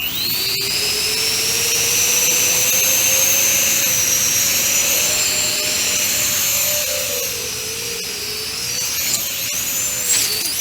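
Electric ducted fans on a 3D-printed quadcopter (50 mm, 12-blade fans on 4600KV brushless motors) spooling up quickly to a loud high whine, then running with the pitch wavering up and down as the throttle changes.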